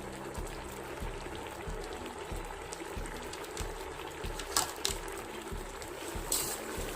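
Pot of boiled chickpeas bubbling uncovered on the stove as the last of the cooking water boils off. Two short sharp knocks come about four and a half and six seconds in.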